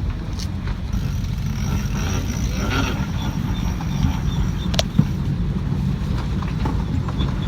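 Sailboat's inboard engine running with a steady low rumble while under way.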